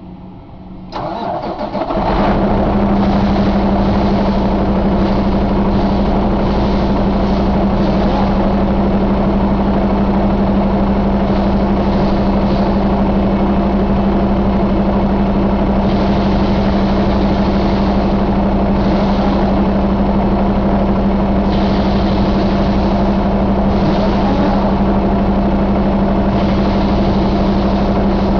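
Cummins X15 inline-six diesel engine cranked by its starter, catching about two seconds in, then idling steadily.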